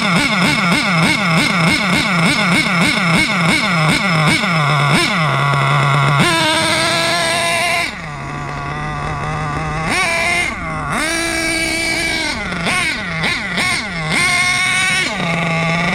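HPI Savage X4.6 nitro monster truck's two-stroke glow engine being revved in quick throttle blips, about two to three a second, then held at higher revs for a couple of seconds at a time, dropping back and revving up again. It is running its break-in tanks at moderate throttle.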